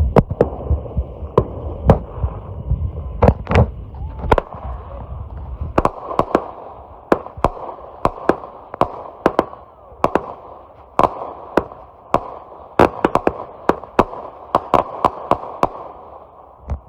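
TNT 'Texas Cyclone' 19-shot consumer firework cake firing: a rapid string of sharp reports from launches and aerial bursts, with a low rumble under the first few seconds, stopping just before the end.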